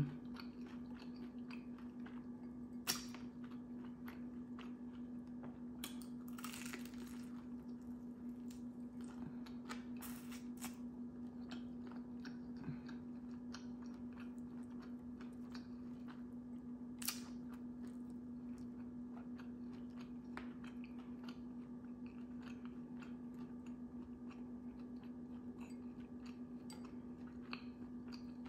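A person chewing crispy fried food close to the microphone, soft wet chewing with a few sharper crunches and clicks spread through. A steady low hum runs beneath.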